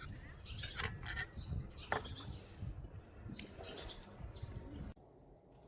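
Small birds chirping over a few sharp clicks and knocks, with the sound dropping away suddenly near the end.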